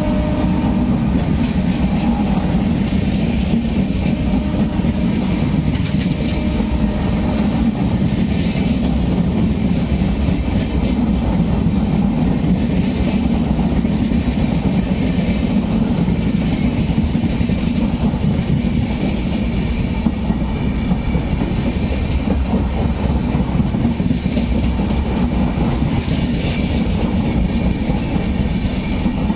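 Indian express passenger train running past at speed: a steady, loud rumble of wheels on track that holds for the whole stretch.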